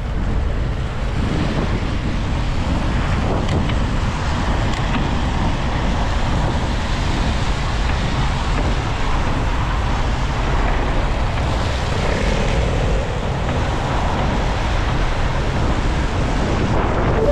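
Steady city traffic noise mixed with wind rushing over the microphone of a camera on a moving bicycle.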